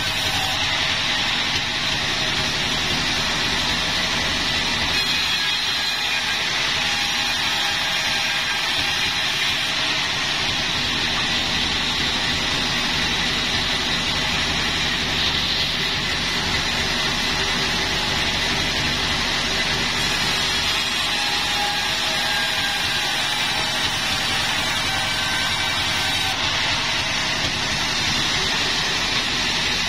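Sawmill machinery running steadily: an engine-driven saw with a continuous high hiss over a low hum and no pauses.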